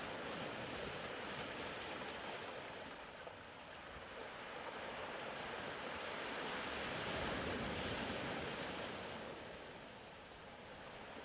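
Ocean surf: a steady wash of waves that swells to a peak about seven seconds in and then ebbs away.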